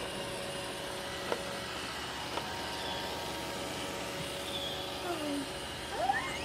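Roomba robot vacuum running, a steady hum with a thin whine, with a couple of light clicks. Near the end a baby makes a few short vocal sounds.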